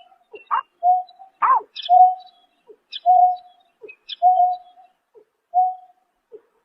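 Greater painted-snipe calling: a series of short, low hooting notes at about one a second, mixed with brief sweeping notes and faint higher chirps.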